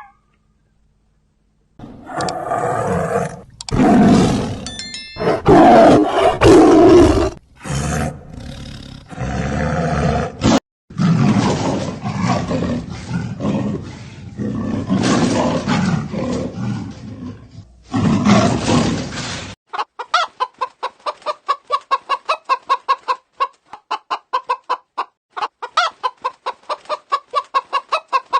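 A series of loud, long animal roars or calls, each cut short, then a fast run of short chicken clucks from about two-thirds of the way through.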